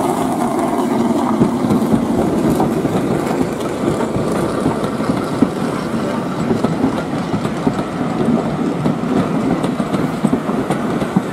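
Coaches of a steam-hauled passenger train rolling past close by, their wheels clattering steadily over the rail joints.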